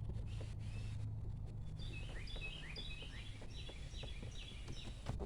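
Birds chirping, a quick run of short, high chirps about three a second through the second half, over a steady low rumble of background noise, with a few faint clicks.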